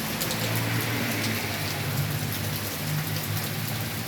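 Heavy rain pouring down in a steady, dense hiss, with many sharper drop ticks through it.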